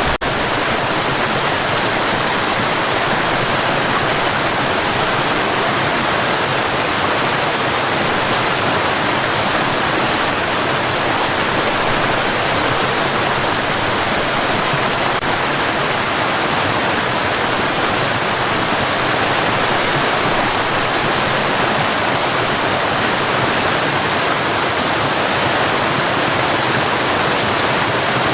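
Steady white noise: an even, unchanging hiss with no breaks or variation, used as a sleep aid for babies.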